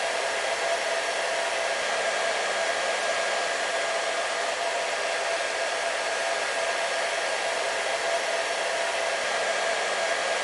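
Hair dryer running steadily, a constant rush of blown air with a steady motor whine.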